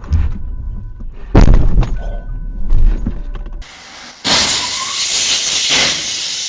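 Vehicle collision: a loud crash about a second and a half in over rumbling road noise, then an abrupt change to a loud steady hiss that runs on to the end.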